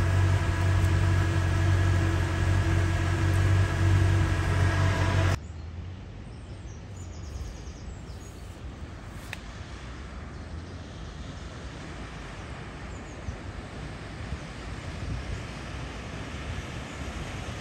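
A vehicle's engine idling steadily, heard up close at the tailpipe with water dripping from beneath the bumper. About five seconds in it cuts off suddenly. It gives way to a quieter, steady wash of splashing from a new Land Rover Defender driving through deep floodwater with a bow wave, growing slightly louder near the end.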